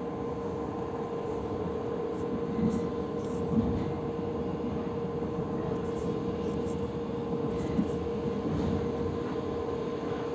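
A passenger train running along the track, heard from inside the carriage: a steady rumble with a constant hum, and a few brief knocks, about three and four seconds in and again near eight seconds.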